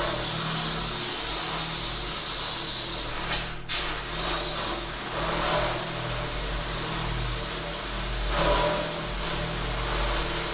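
Water spraying hard from a hose nozzle inside a milk bulk tank, with a steady hum underneath. It starts and cuts off abruptly, with a brief break about three and a half seconds in.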